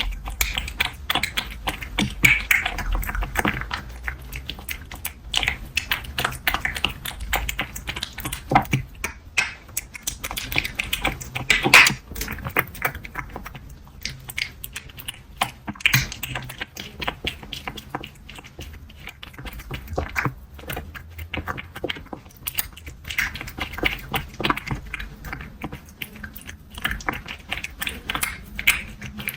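Close-up mouth sounds of a cat: a dense, irregular run of small clicks and crackles.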